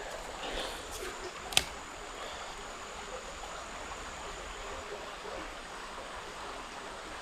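Small creek flowing steadily, an even rush of running water. A single sharp click sounds about one and a half seconds in.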